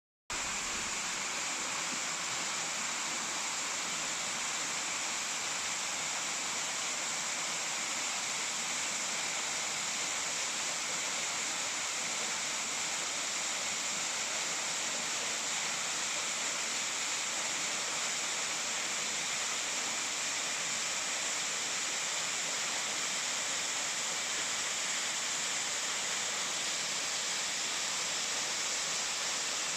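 Waterfall's falling water rushing steadily, an even hiss-like noise that never lets up.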